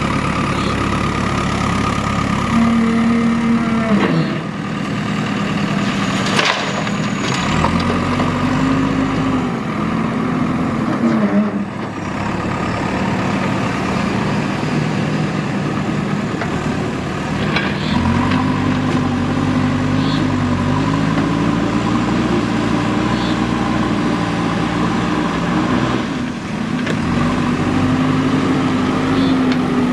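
JCB 3DX backhoe loader's diesel engine running under load, its revs rising and dropping again several times as the hydraulics work, with a few metallic knocks.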